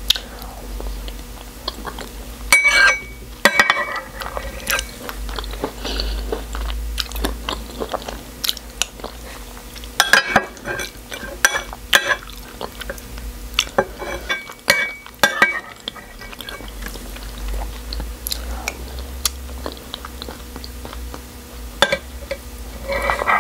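Close-miked eating: chewing and swallowing spoonfuls of beans and pap (akamu, a soft fermented corn porridge). A metal spoon clicks and scrapes against the bowls again and again, over a steady low hum.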